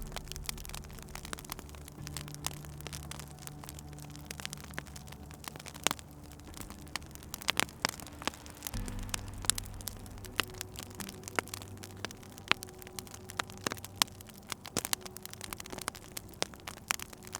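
Wood fire crackling, with frequent irregular sharp pops, over soft, low sustained music notes that shift to new chords now and then.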